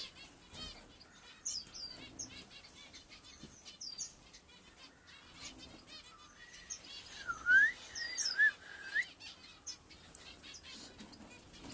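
Small pet birds chirping, with many short high calls throughout and a run of rising and falling calls about seven to nine seconds in, among scattered short clicks.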